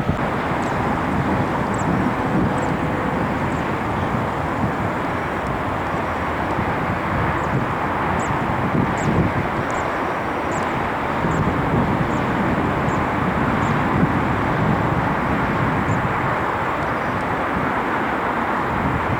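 Jet airliner's engines heard from the ground: a steady, loud rushing noise that holds level without rising or fading.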